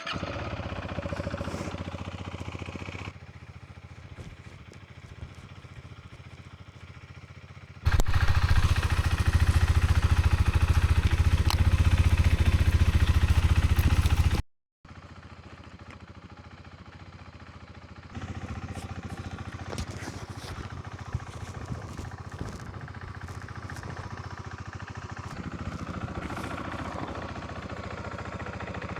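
Husqvarna Svartpilen single-cylinder motorcycle engine running, heard in several spliced clips at different levels; the loudest stretch, about a third of the way in, ends with an abrupt cut, followed by steadier, quieter running.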